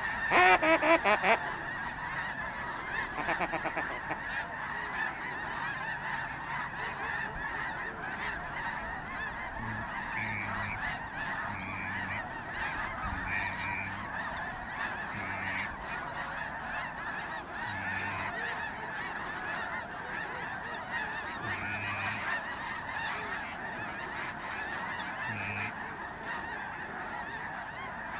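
Large flock of snow geese calling, a dense continuous chorus of many overlapping honks, with a few louder, closer calls about a second in.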